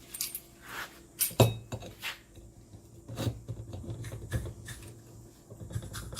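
Metal parts of a chrome motorcycle shock absorber clinking and knocking as the damper unit is fitted back into the shock body, with one sharp knock about a second and a half in and rubbing handling noise after it.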